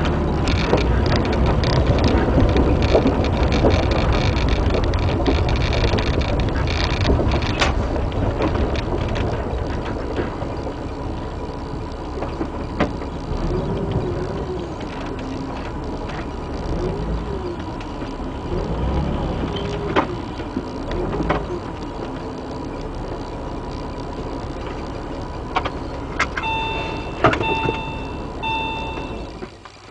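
Porsche 996 flat-six engine and road noise heard from inside the cabin, louder while driving for the first ten seconds or so, then lower and steadier as the car slows. Three short electronic beeps sound near the end.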